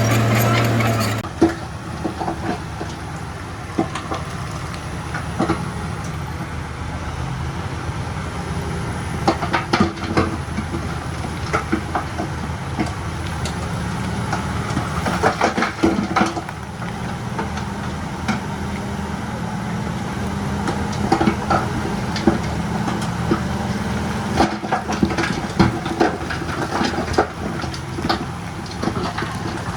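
Bulldozer at work: a diesel engine running steadily under frequent sharp metallic clanks and knocks. A louder, steady engine hum cuts off about a second in.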